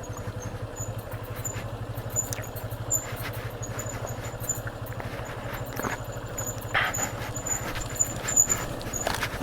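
Motorcycle engine running at a steady low speed on a rough dirt track, with scattered knocks from the ride and a thin, high squeak that comes and goes.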